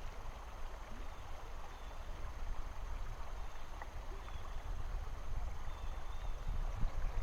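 Steady rush of flowing river water, with a low rumble underneath that grows slightly louder toward the end.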